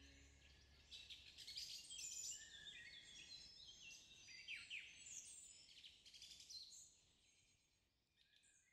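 Faint outdoor birdsong: several songbirds chirping and trilling over one another, fading away near the end.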